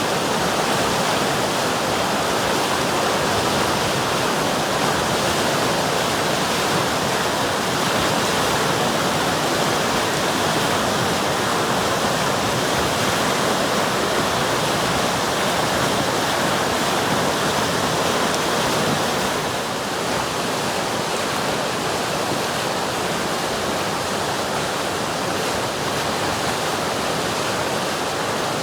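River water rushing over rocks, a steady full rush with no let-up.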